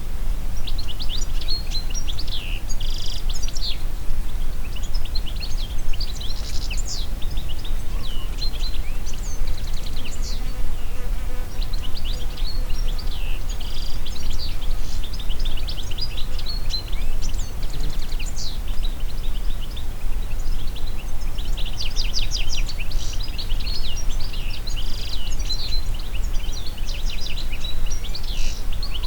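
Wind moving through forest trees, a steady low rumble underneath, with many small songbirds chirping and twittering constantly, busiest near the end.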